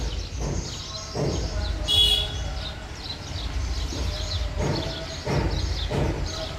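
Small birds chirping over and over, with a short, sharper call about two seconds in, over a steady low background rumble.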